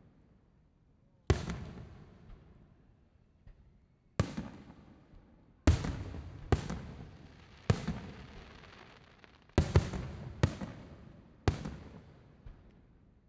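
Aerial fireworks shells bursting: about nine sharp bangs at uneven intervals, each trailing off in a fading rumble. Several come in quick succession in the second half.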